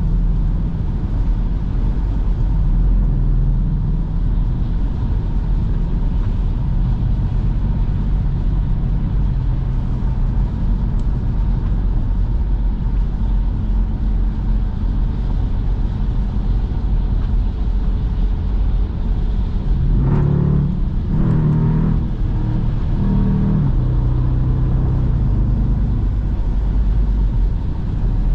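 Jeep Grand Cherokee SRT's 6.4-litre HEMI V8 with a mid-muffler delete, running with a steady low exhaust rumble while driving. About 20 seconds in it revs up hard for a couple of seconds in a sharp acceleration on a wet road, which briefly spins the tyres, then settles back to cruising.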